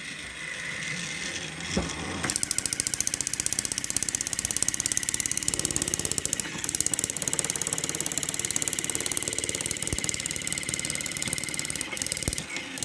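Battery-powered toy train engines running: small electric motors whining, joined about two seconds in by a louder, rapid clicking rattle of gears and wheels.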